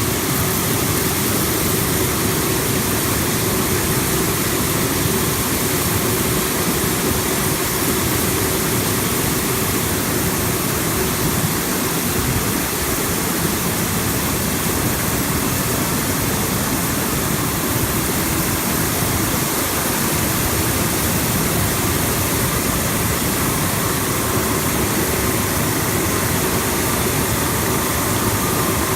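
Bubble-type vegetable washing machine running steadily: a constant rush of air-agitated water over a faint, even motor hum.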